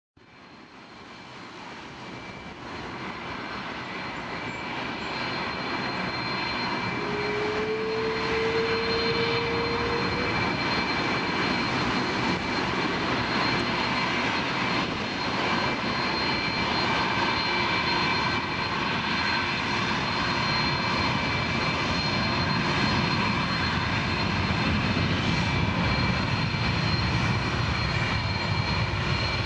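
The General Electric CF6-80E1 turbofans of a KLM Airbus A330-200 at taxi power: a steady jet whine with several high steady tones, swelling up over the first several seconds and then holding. A short, slightly rising tone sounds about seven seconds in.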